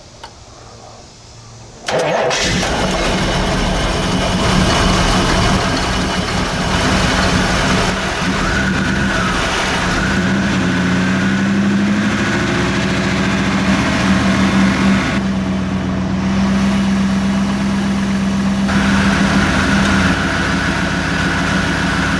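1988 Chevy Camaro IROC-Z28's V8 starting on a jump pack about two seconds in, then running steadily. It starts fine with the jump pack on, which shows the starter is good and points to a failing six-year-old battery as the cause of the clicking no-start.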